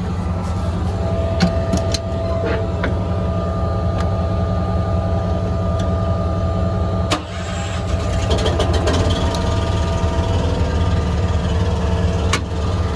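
An engine running steadily at a low, even drone, with a faint steady whine and a few sharp clicks and taps over it.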